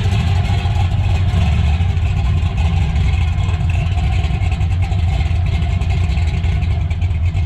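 Car engine running, a loud, steady low rumble.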